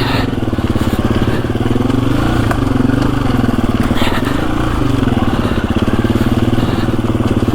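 KTM 350 EXC-F single-cylinder four-stroke dirt bike engine running under way, the revs rising and falling gently a few times, with a couple of brief knocks.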